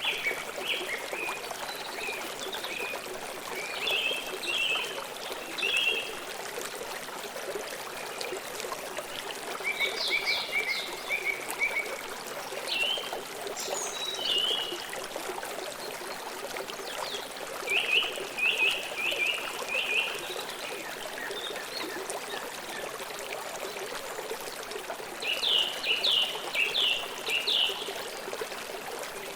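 A river flowing steadily, with a bird calling over it in short runs of quick high chirps every few seconds.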